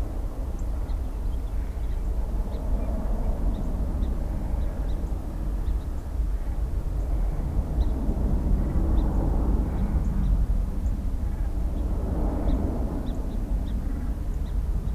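Jet aircraft engine noise at an airport: a steady low rumble with a rushing haze that swells twice, around the middle and again near the end.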